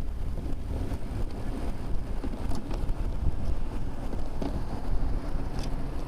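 Wind buffeting the microphone of a camera mounted on a moving bicycle, a steady low rumble mixed with road noise, with a few faint ticks.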